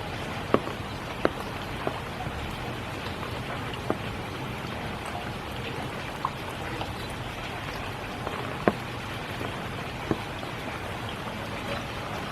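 Steady spring rain falling, with single heavier drops landing close by as sharp taps, about seven of them at irregular intervals.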